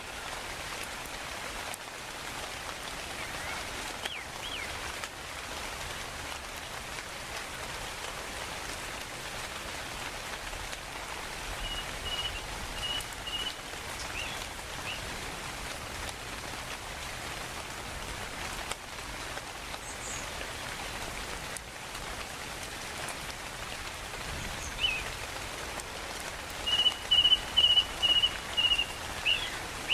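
Steady rainfall hiss with birds calling over it. Short repeated high notes come about twelve seconds in, then a louder rapid run of notes and quick downward chirps near the end.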